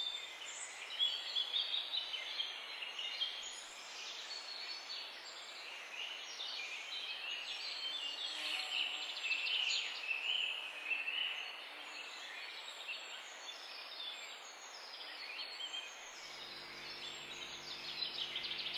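Birds chirping and singing, faint, many short varied calls overlapping.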